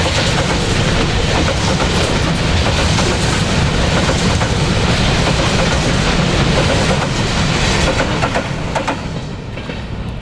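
Freight train wagons passing close by, wheels clattering over the rail joints; the sound drops noticeably about eight and a half seconds in as the train moves off.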